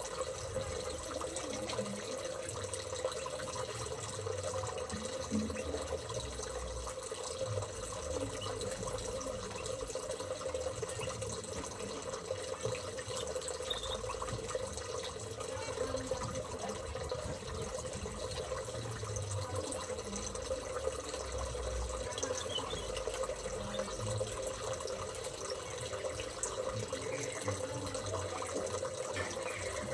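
Water running steadily, like a tap or a small water feature flowing without a break, with a steady hum underneath.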